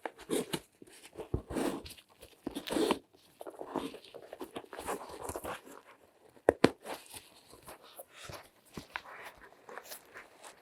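Close-miked handling sounds of latex-gloved hands working over objects: irregular crinkling, rustling and light tapping, with two sharp clicks about six and a half seconds in.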